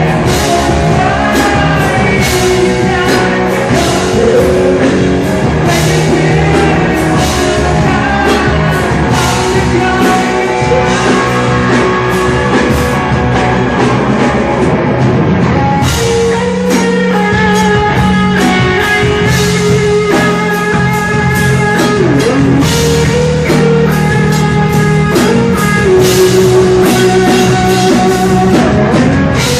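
Rock music played by a band, with guitar and a drum kit keeping a steady beat, and possibly vocals.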